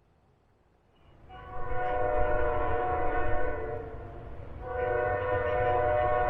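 Locomotive air horn sounding a multi-note chord: a long blast starting about a second in, a short break, then a second long blast near the end, over a low rumble.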